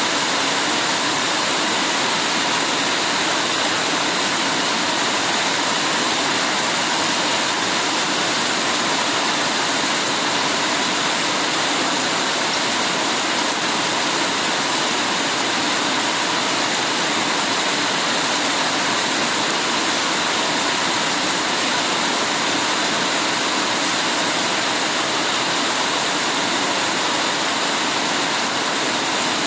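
Heavy rain falling, an even, unbroken hiss with no single drops, thunder or other events standing out.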